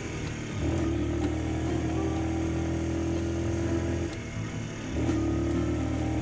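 Honda Super Cub's single-cylinder four-stroke engine running steadily while riding. Its note drops away briefly near the start and again about four seconds in, then picks up again.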